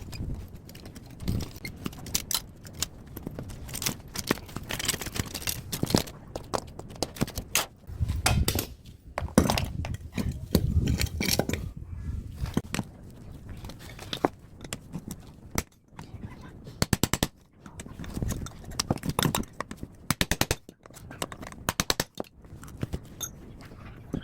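Metal clanks and knocks, with several short rapid rattling bursts in the second half, as an air-conditioner outdoor unit is taken apart.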